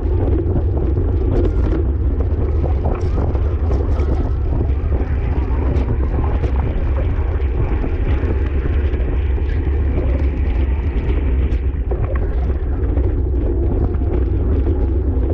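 Steady wind rush buffeting the microphone of a camera carried on a racing bicycle at speed, over tyre hiss on a wet road.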